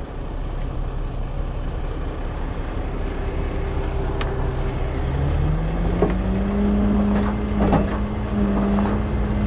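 Heavy tow truck's engine running steadily, then rising in speed about halfway through and holding at a higher steady pitch, with a few short knocks near the end.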